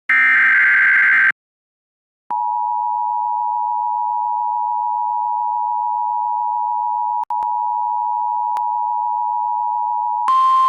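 NOAA Weather Radio emergency alert signalling a tornado watch: a buzzy data burst of about a second, a pause, then the two-tone alert attention signal held steady for about eight seconds, with a brief dropout partway through. Near the end it switches to a single slightly higher steady tone.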